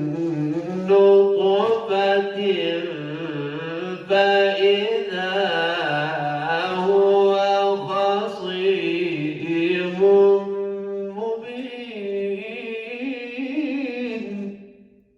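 A man reciting the Quran in melodic tajweed style. A single voice draws out its phrases in long, ornamented melodic runs, then fades out near the end.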